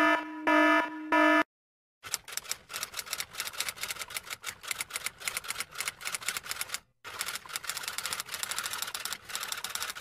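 An electronic alarm beeping in short pulsed tones, which stops about a second and a half in. After a short pause, typewriter keys clatter rapidly, with one brief break about two-thirds of the way through.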